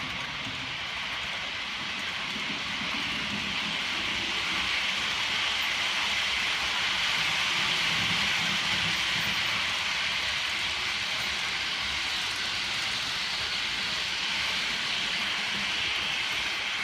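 SBB Cargo intermodal freight train rolling past: a steady rush of steel wheels on rail, swelling slightly about halfway through.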